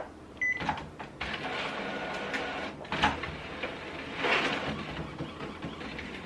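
Epson WorkForce WF-3620 inkjet printer starting a nozzle check print: a short beep from its control panel about half a second in, then the paper feeding and the print head running with clunks and whirring.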